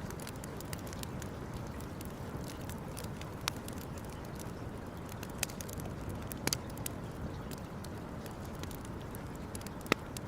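Wood campfire crackling, with scattered small ticks and a few louder sharp pops over a steady low hiss.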